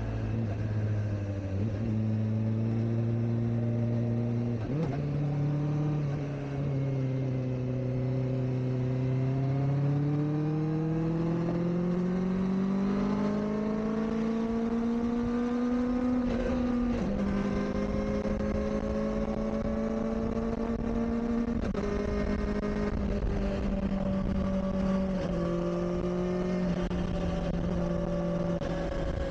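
Kawasaki Ninja ZX-4RR's 399 cc inline-four engine heard from on board while riding. Its pitch climbs steadily through the middle as the bike accelerates and jumps suddenly several times as gears change. Revs stay moderate because the new bike is still being run in.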